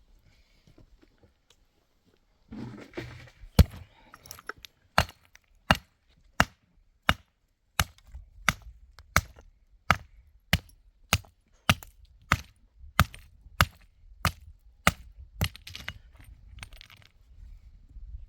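Chopping: a steady run of about eighteen sharp blows, roughly three every two seconds, starting a few seconds in after some brief rustling and stopping near the end.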